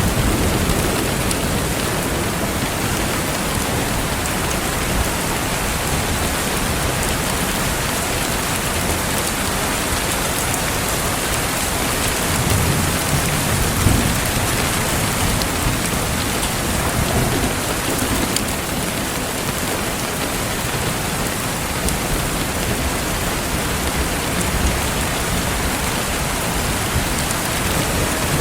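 Steady rain falling, an even hiss throughout, with a low rumble swelling about twelve to fourteen seconds in.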